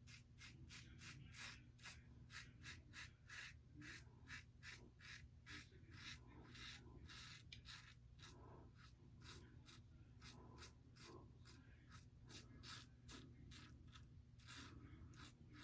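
Double-edge safety razor scraping stubble through lather in quick short strokes, about three a second, with brief pauses between runs.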